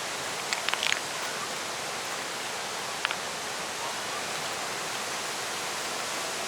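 Steady rush of a waterfall, an even roar of falling water, with a few sharp clicks just under a second in and another at about three seconds.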